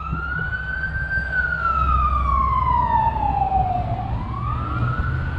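A siren wailing: one long tone that rises, falls slowly over about three seconds, then rises again near the end, over a low steady rumble.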